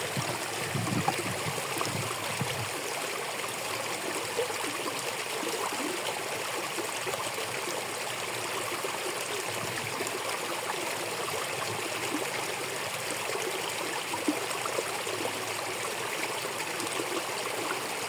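Water running steadily through a drainage ditch.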